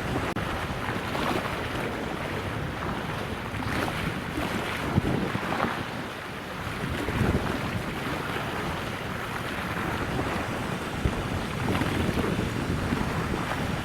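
Wind gusting on the microphone over a steady rush of water, with occasional brief buffets.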